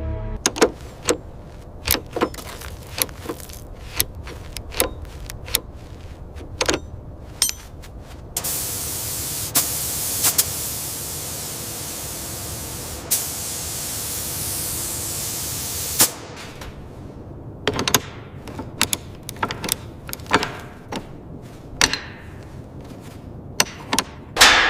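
Workshop sounds: a run of sharp taps and clanks, about one or two a second, then a steady hiss lasting about eight seconds, then more taps, the last the loudest and ringing on.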